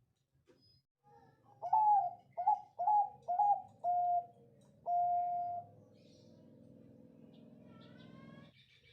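Zebra dove (Bangkok-type perkutut) singing one song phrase: a quick run of five short cooing notes, then one longer held coo.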